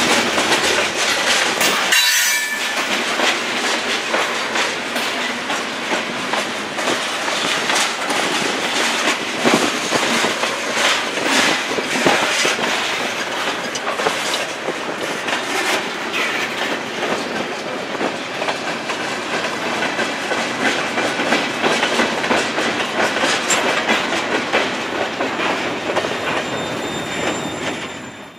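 Freight cars rolling past at close range: steady steel-wheel noise with a clickety-clack of wheels over rail joints and a brief high wheel squeal about two seconds in. The sound fades out near the end.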